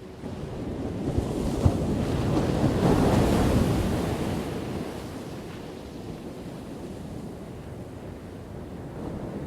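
Ocean waves crashing: one wave breaks, its rush of surf swelling from just after the start, peaking about three seconds in and then washing back down to a steady hiss of sea.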